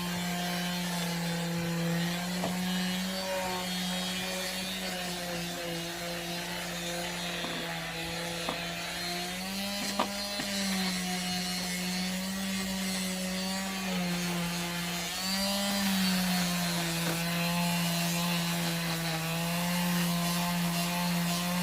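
Electric disc sander running against wood, a steady motor hum with a grinding rub over it that shifts slightly in pitch now and then.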